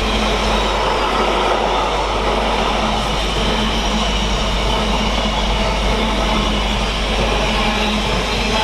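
A Freightliner freight train hauled by a Class 66 diesel rolls steadily past, its wagons running on the rails.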